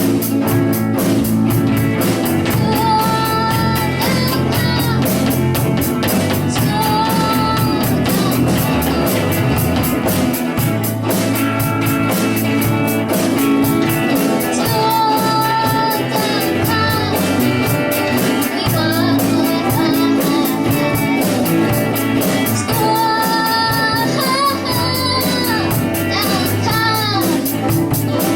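Student rock band playing an original rock song live: a steady drum beat with guitar and bass, and a singer holding long notes over it.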